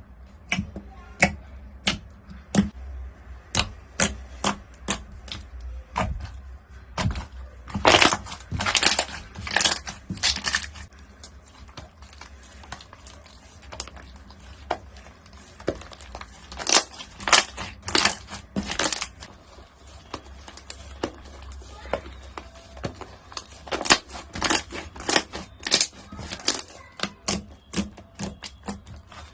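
Crunchy slime being pressed and squeezed, giving a run of sharp crackling pops. The crackles come thicker and louder three times: about eight, seventeen and twenty-five seconds in.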